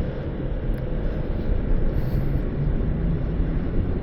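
Motorcycle engine running at low speed under a steady low rumble of wind and road noise.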